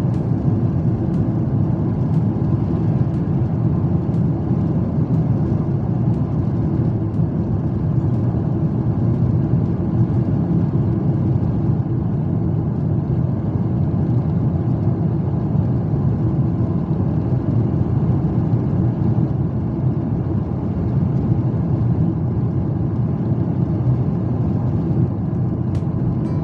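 Steady low rumble of a jet airliner's engines and rushing air heard inside the passenger cabin.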